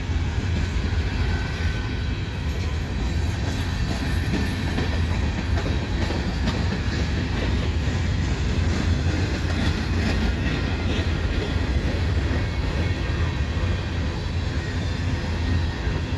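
Freight cars of a long freight train rolling past at close range: steady noise of steel wheels on rail, with many small clacks and rattles throughout.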